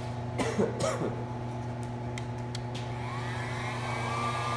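Electric heat gun switched on: a few clicks, then about three seconds in its fan motor spins up with a rising whine that levels off into a steady run.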